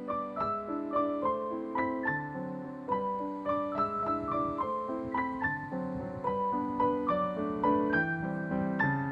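Background piano music: a gentle melody of struck notes over a slower, lower accompaniment, played at an even pace with about two notes a second.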